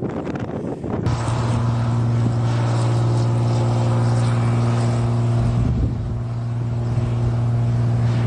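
Wind noise, then about a second in an engine hum cuts in abruptly and runs at a steady, unchanging pitch.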